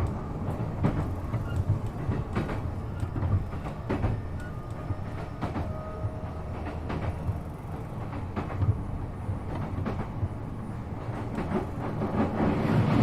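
E233-7000 series electric train running on the rails, heard from on board: a steady low rumble of wheels on track with scattered clacks over rail joints. The rumble swells near the end.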